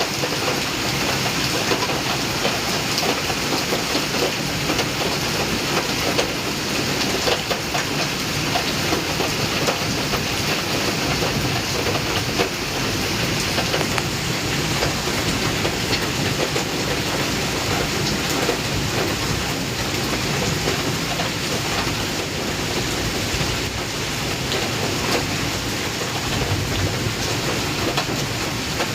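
Heavy rain falling in a steady downpour, a dense even hiss with many fine pattering ticks.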